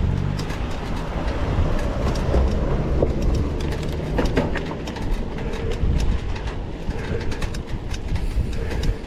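Mountain bike ridden over a rough dirt trail: a steady low rumble from the tyres with frequent rattling clicks from the bike.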